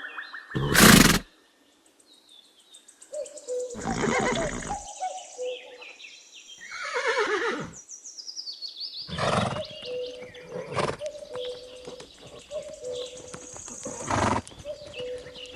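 Horse neighing: a long whinny that falls in pitch about seven seconds in, with several short noisy blasts between the calls.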